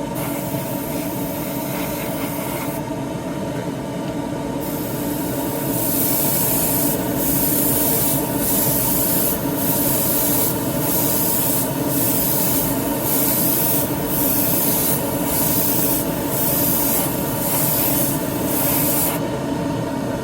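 Airbrush compressor humming steadily while the airbrush hisses as paint is sprayed, in repeated passes of about a second each with short breaks between; the spraying pauses briefly early on and stops near the end.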